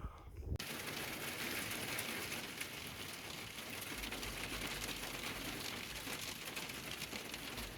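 Steady hiss of precipitation pattering on a surface, with many fine irregular ticks, cutting in suddenly about half a second in.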